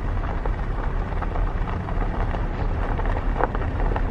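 Wind buffeting the microphone outdoors: a loud, uneven low rumble.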